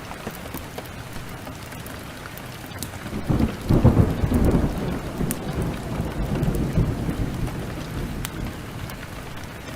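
Steady heavy rain with scattered sharp drop ticks, and a thunder rumble that swells about three seconds in, peaks briefly and rolls away over several seconds.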